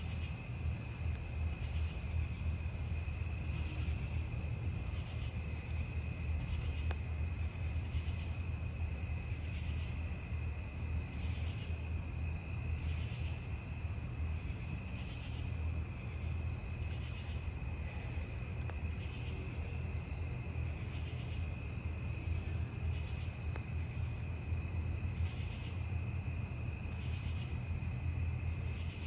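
Crickets chirping in a continuous high trill, with a second insect giving shorter, higher chirps every second or two, over a steady low rumble.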